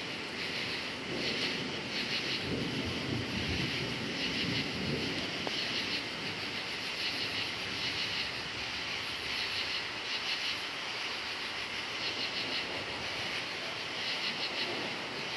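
Crickets chirping in a steady, pulsing chorus, with a low rumble of distant thunder swelling and fading a few seconds in.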